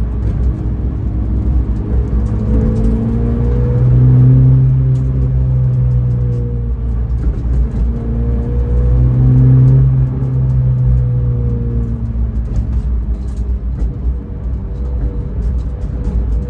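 Race car engine and road noise heard from inside the cabin while driving: a constant low rumble under a steady engine note that swells louder twice as the car pulls harder, then eases off.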